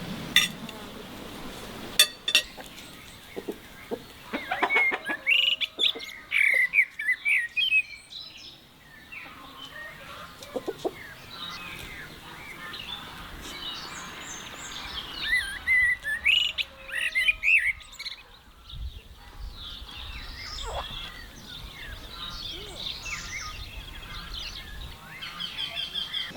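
Songbirds chirping and singing in quick, twittering phrases, in two main bouts about five and fifteen seconds in, with scattered calls after. A few sharp clicks near the start.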